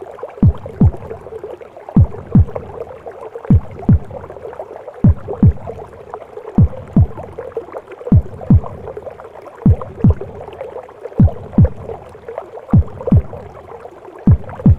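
Mother's heartbeat as heard inside the womb: deep, muffled double thumps, lub-dub, repeating slowly about every one and a half seconds over a steady whooshing womb noise.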